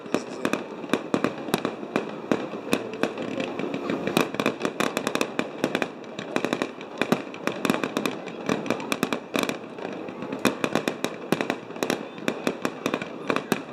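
Fireworks going off: a dense run of sharp bangs and crackles, several a second.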